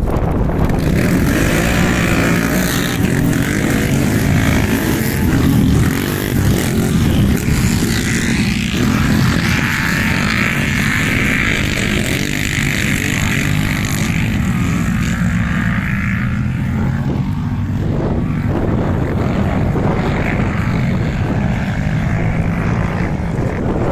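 ATV quad bike engine running hard, a loud continuous drone that varies only a little in pitch.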